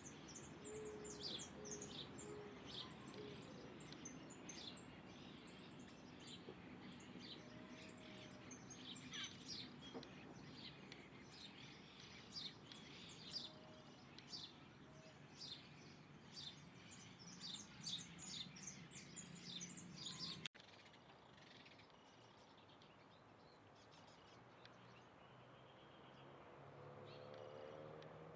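Wild birds chirping: many short, high calls in quick succession, faint, which stop abruptly about twenty seconds in at an edit, leaving a quieter background.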